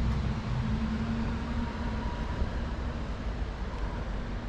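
Steady low rumble of background noise, with a faint steady hum running through it.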